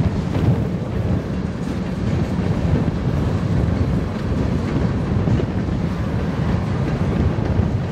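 An empty freight train of covered hopper cars rolling past, a steady low rumble of wheels on the rails.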